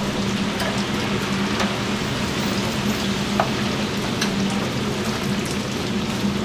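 Chicken frying in hot oil: a steady sizzle with a low hum under it and a few light ticks.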